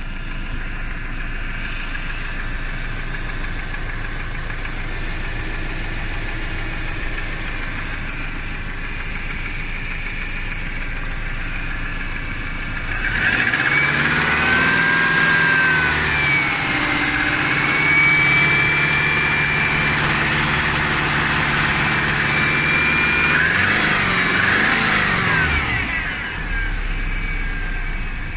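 Opposed-cylinder engine running steadily, then about halfway through getting louder as it speeds up and varies in speed, dropping back near the end. The engine is said to have a piston knock.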